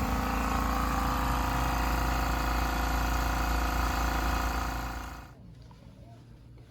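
A machine running with a steady hum made of several fixed tones, which winds down and stops about five seconds in.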